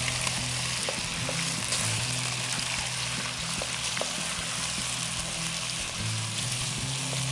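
Chicken pieces and chopped ginger and garlic sizzling in very hot oil in a non-stick wok, with a spatula clicking against the pan now and then as they are stirred. Soft background music with low held notes runs underneath.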